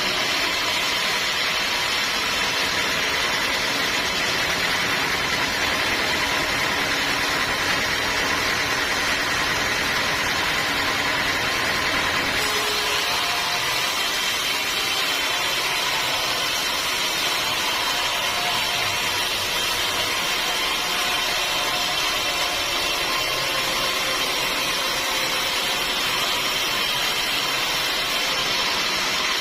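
Sawmill machinery running steadily as teak logs are sawn: a continuous mechanical drone with a steady high whine, whose tone shifts slightly about twelve seconds in.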